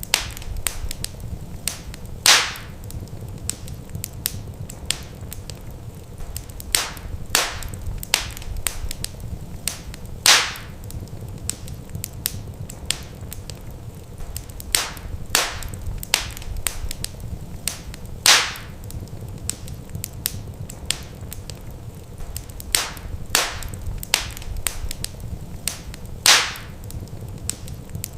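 Wood fire crackling in a fireplace: a steady run of sharp snaps and ticks over a low rumble of the flames, with a bigger pop about every eight seconds.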